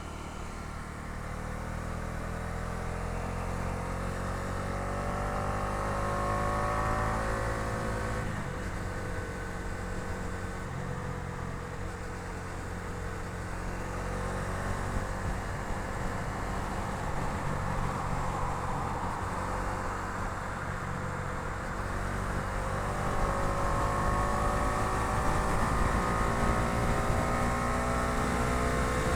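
Bajaj Dominar 250's single-cylinder engine running under way, its note climbing as the bike accelerates over the first several seconds, breaking off about eight seconds in as if for a gear change, then climbing again near the end.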